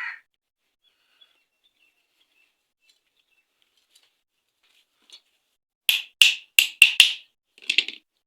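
Sharp metal knocks, five or six in quick succession and then one more: a new ball bearing being knocked down into its seat in the engine plate.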